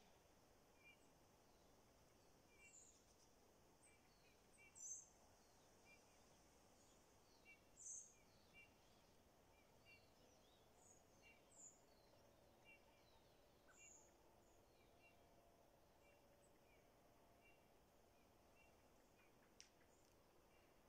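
Faint wild birds calling in the open: short, high chirps every few seconds against a very quiet background, with softer, lower notes scattered in between.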